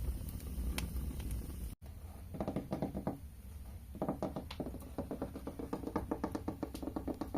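A low rumbling noise that cuts off abruptly about two seconds in. It is followed by quick runs of light taps with a slightly hollow ring, several taps a second, in bursts of ASMR tapping.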